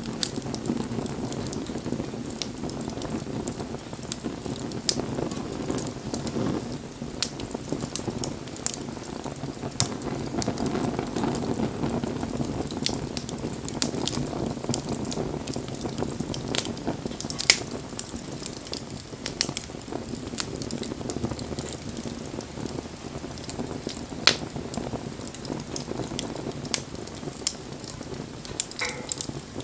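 Wood bonfire burning: a steady low rush of flames with sharp, irregular crackles and pops from the burning wood, a few of them louder.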